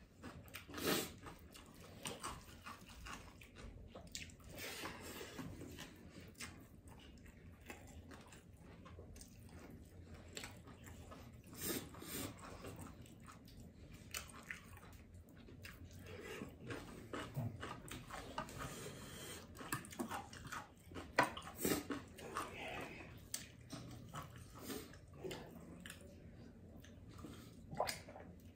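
Close-up mouth sounds of a person eating rice mixed with kimchi by hand: irregular wet chewing and smacking clicks.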